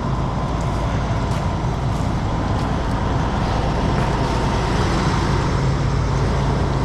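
Heavy diesel truck engine running steadily, with a low hum that grows a little stronger about five seconds in.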